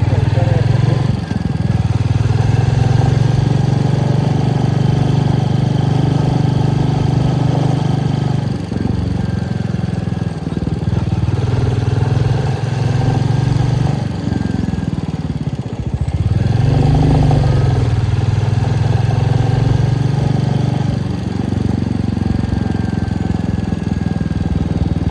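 Royal Enfield Meteor 350's single-cylinder engine running while the bike is ridden, a steady low engine note with wind and road noise. The engine note drops briefly about eight seconds in and again around sixteen seconds in, then picks back up, as when the throttle is eased and reopened.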